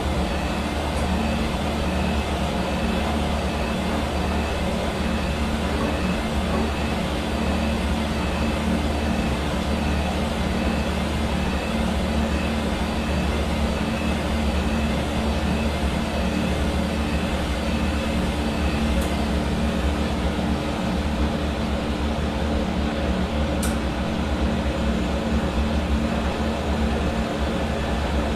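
Hair dryer running steadily, its motor and fan blowing air in an even noise with a low hum.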